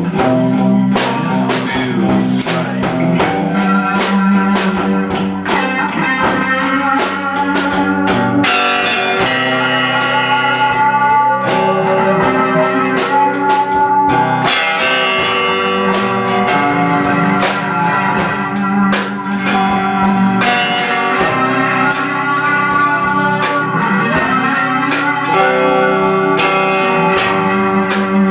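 Blues band playing an instrumental passage: a guitar lead with notes that bend in pitch, over held chords and a drum beat.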